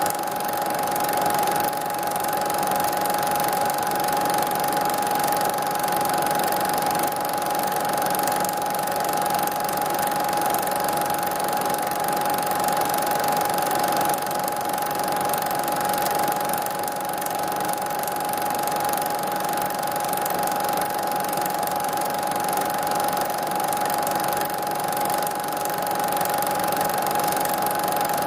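Steady mechanical whirring noise with a constant high-pitched whine running through it. There is no music or speech.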